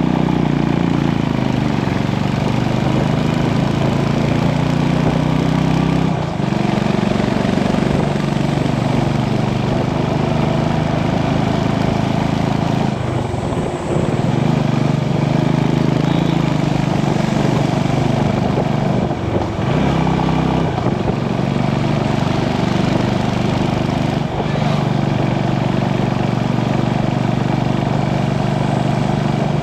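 Motorcycle engine running under way, its note rising and falling with the throttle and dropping briefly about four times, over steady wind and road noise.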